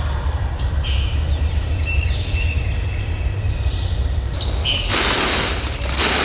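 Songbirds chirping in the woods, a few short high calls and a brief trill, over a steady low rumble. About five seconds in, a loud rush of noise lasting just over a second covers them.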